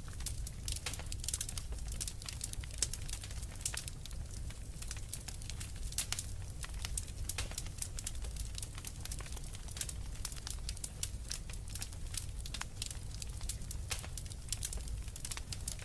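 Wood fire crackling, with frequent irregular snaps and pops over a steady low rumble of the burning fire.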